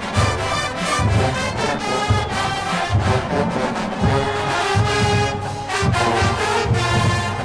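HBCU marching band playing, brass section holding loud chords over heavy low drum beats about once a second.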